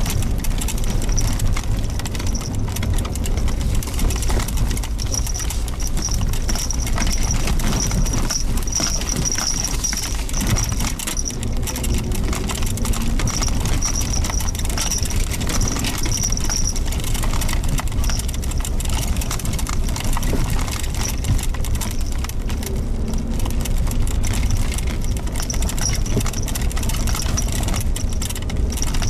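Suzuki Jimny Sierra driving along a dirt forest road: steady engine and tyre rumble with frequent small knocks and clatter from the rough surface. A thin high tone comes and goes.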